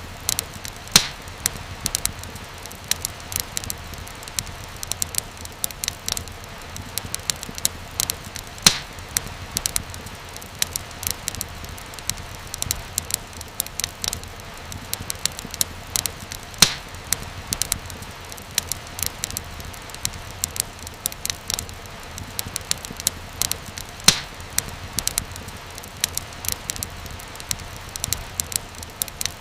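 Wood fire crackling steadily, with constant small snaps and a louder pop every several seconds over a low hiss and rumble of the flames.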